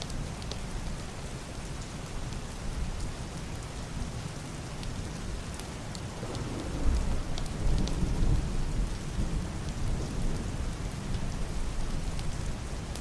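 Heavy rain on a roof and window glass, a steady hiss with scattered sharp drop ticks. Distant, muffled thunder rumbles in about halfway through, swells for a couple of seconds, then rolls on more quietly beneath the rain.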